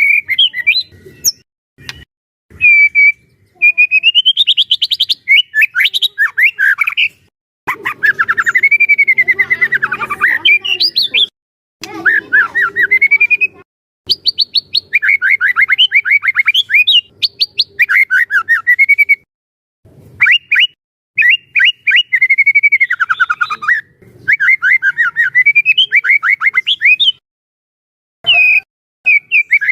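White-rumped shama (murai batu) singing loudly in full, sustained song. It gives phrases of a few seconds each, made of rapid trills and rising and falling whistles, with short pauses between them.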